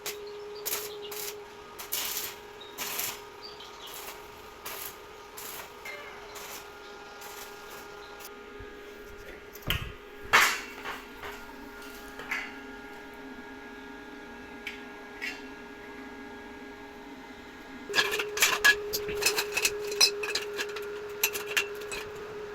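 Metal being tapped and knocked with hand tools during window-grill fabrication: scattered sharp taps, one louder knock about ten seconds in, and a quick flurry of taps near the end, over a steady hum.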